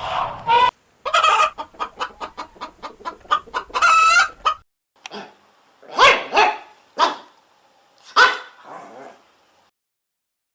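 Chickens clucking: a fast run of short clucks ending in a longer, drawn-out call, then a few louder single calls.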